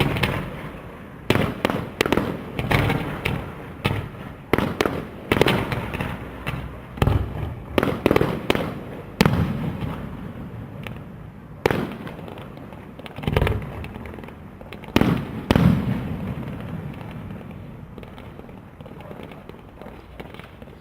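Aerial fireworks display: shells bursting in a rapid series of loud bangs, about one a second, each trailing off in an echoing rumble. The bangs stop about three-quarters of the way through and the sound dies away.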